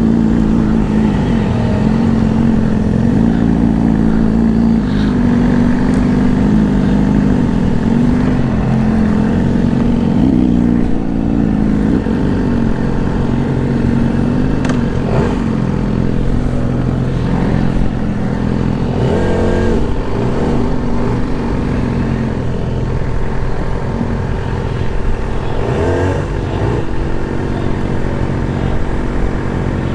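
Motorcycle engine running while riding, its pitch rising and falling with the throttle, with brief swells of another engine sound about 19 s and 26 s in.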